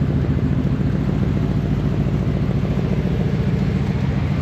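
A vehicle engine idling steadily at a constant speed.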